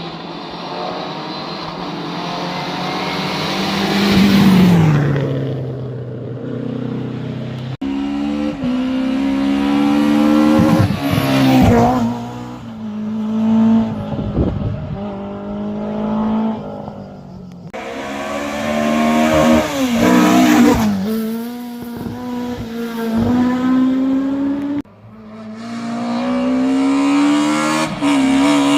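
Historic rally cars driven hard one after another, engines revving high and dropping back through quick gear changes. About four seconds in, one car passes with a falling pitch, and the sound switches abruptly to the next car three times.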